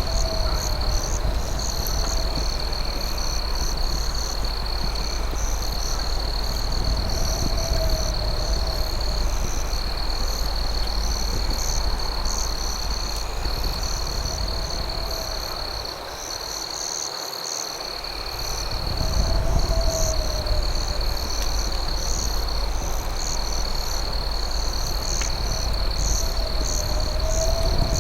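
Night insect chorus: crickets trilling in one steady high note, with faster pulsing chirps above it. A lower wavering call comes back every few seconds over a low rumble, which drops away briefly about two-thirds of the way through.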